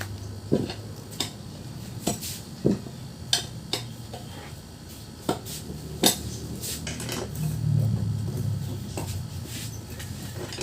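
Irregular metallic clinks and knocks, about a dozen spread unevenly, as of tools and metal parts being picked up and set down. A low steady hum runs underneath.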